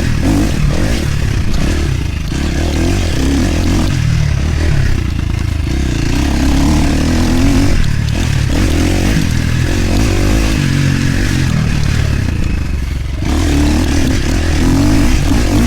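KTM enduro dirt bike engine running hard as it is ridden, the revs rising and falling, with the throttle backing off a few times.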